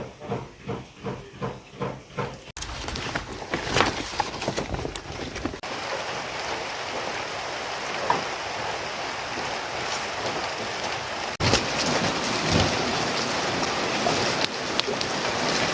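Rain falling: a steady dense hiss. In the first couple of seconds there is a quick, regular tapping, about four beats a second, which stops abruptly.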